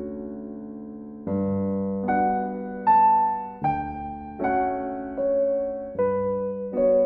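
Slow solo piano background music: a low bass note struck every couple of seconds under ringing chords and a quiet melody line.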